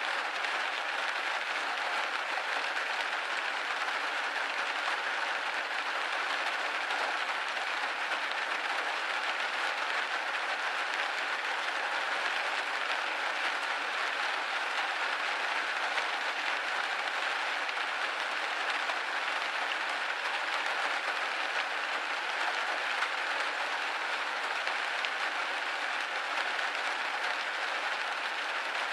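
Rain falling on a window pane: a steady, even hiss of many small drops, with no low rumble.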